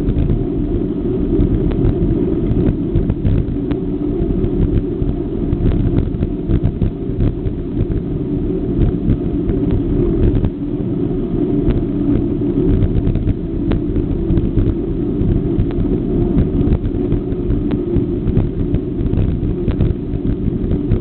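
Low rumble of wind buffeting the microphone and road vibration from a moving bicycle, with frequent small rattling clicks all through.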